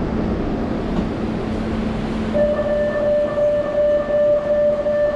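An electric train heard from inside a moving passenger car: a steady, dense rumble of the ride. About two and a half seconds in, a steady tone with overtones joins it and holds until near the end.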